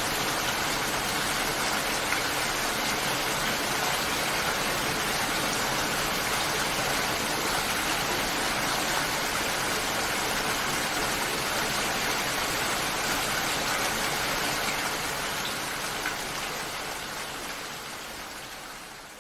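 Steady rain, an even dense hiss of falling water, fading out over the last few seconds.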